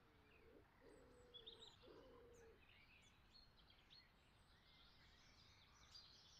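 Near silence, with faint birds chirping off and on in the background.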